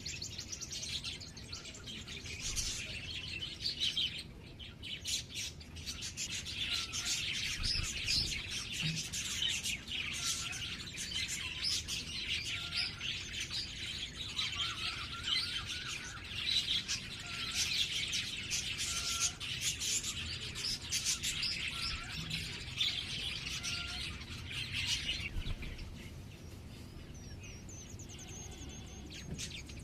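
Small birds chirping busily, with many quick high calls overlapping one another, thinning out for the last few seconds.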